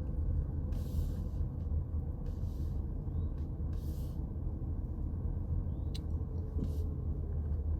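Steady low road-and-engine rumble inside a moving car's cabin, with a single light click about six seconds in.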